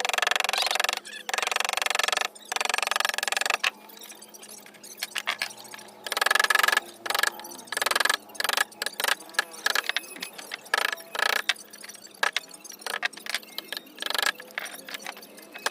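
Hand carving tools working sheesham wood: a few long scraping strokes of about a second each, then a run of quick short taps and scrapes.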